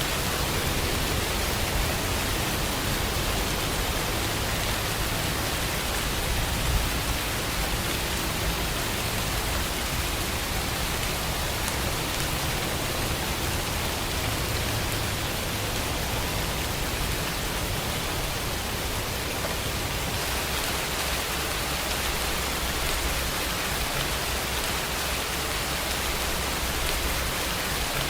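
Steady rain, an even hiss with no break, over a low rumble that swells a little about seven seconds in.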